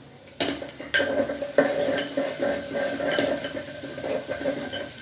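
A metal spoon stirring and scraping through biryani rice simmering in a pressure-cooker pot, with a few sharp knocks against the metal in the first two seconds over a steady bubbling. The rice is being checked for being about three-quarters cooked.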